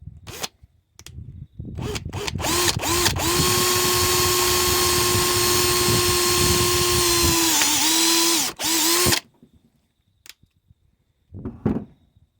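Power drill running a bit through the mower's starter-cord handle to widen its hole for a thicker rope: a few clicks, then a steady motor whine for about five seconds that sags briefly as the bit loads up, a short stop, and a brief second burst.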